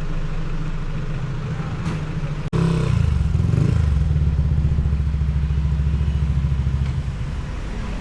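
A vehicle's engine running with a steady low rumble; after a brief cut about two and a half seconds in it is louder, with a fast even pulsing.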